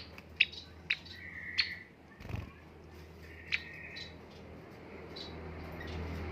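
A white-headed munia (emprit haji), a small pet finch, calling: several sharp high chirps in the first second, then two longer buzzy calls, with fainter chirps after. There is a soft low thump about two seconds in.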